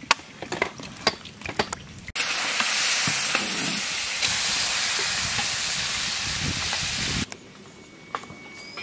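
Food frying in hot oil in a steel karahi, a loud sizzle that starts suddenly about two seconds in and cuts off sharply about five seconds later. Before it there are a few light clicks and knocks.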